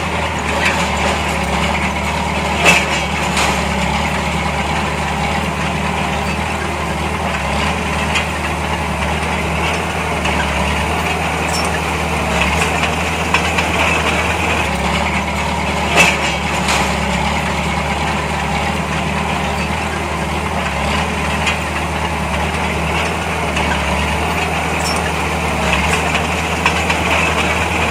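Heavy earthmoving machine's diesel engine running steadily at a low idle-like drone, with a couple of sharp metallic clanks, the loudest about three seconds in and again about halfway through.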